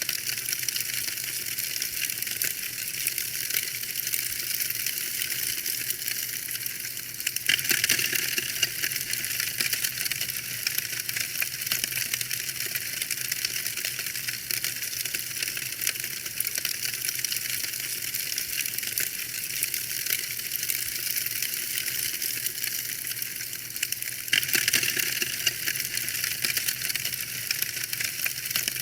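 Wood fire crackling: a dense, steady patter of small pops and snaps, with two louder flurries about eight seconds in and again near twenty-five seconds.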